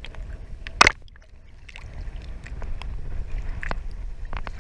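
Water slapping and lapping at a small boat's hull, with low wind rumble on the microphone; one sharp smack about a second in and light clicks and knocks toward the end.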